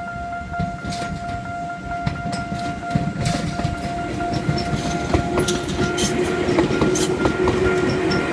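Japanese level-crossing alarm ringing steadily as a Tobu Sano Line train approaches and passes through the crossing. Its wheels clatter over the rail joints, growing louder from about three seconds in.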